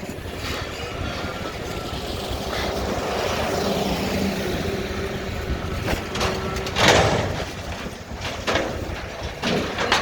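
Mack garbage truck with a McNeilus front-loader body, its diesel engine and hydraulics running under load with a steady hum that swells in the middle. A loud burst of noise comes about seven seconds in, and a few sharp knocks follow near the end.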